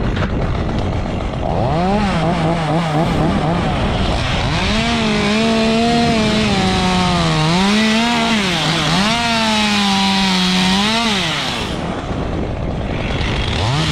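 Chainsaw running at high revs while cutting, its pitch sagging under load and climbing back several times, then dropping away and revving up again near the end.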